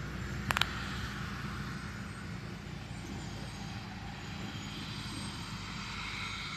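Heavy harvesting machinery running with a steady engine drone. Two sharp clicks come about half a second in.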